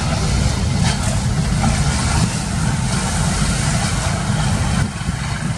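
Fishing boat's engine running steadily under dense rough-sea noise, with a sharp knock about a second in.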